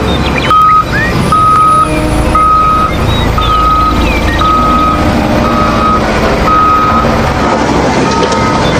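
Vehicle reversing alarm beeping, a single steady tone repeated about once a second, over a busy background of noise.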